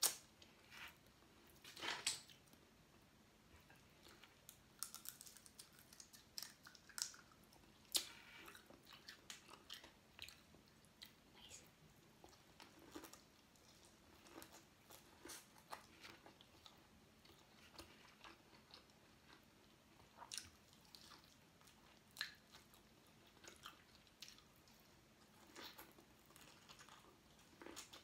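A person chewing and eating seafood, with irregular soft wet smacks and small clicks, faint overall; the sharpest clicks come about two and eight seconds in.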